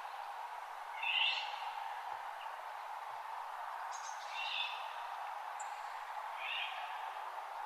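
Wild birds calling in a forest at dawn: three short calls, about a second in, around the middle and near the end, over a steady hiss of background noise.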